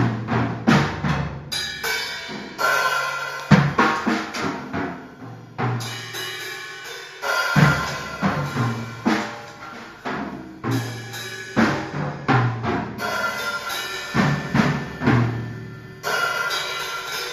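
Drum kit played in a steady repeating groove: bass drum thuds, snare hits and cymbal wash, with heavier accents every few seconds.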